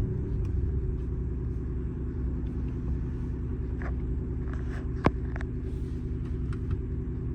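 Mercedes-AMG GT63 S twin-turbo V8 with a straight-piped exhaust idling steadily, heard from inside the cabin. A single sharp click about five seconds in.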